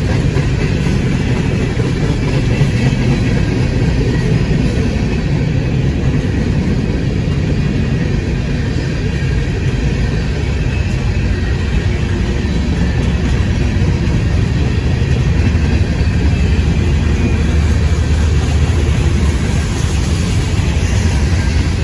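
CSX train rolling past with a steady, loud low rumble.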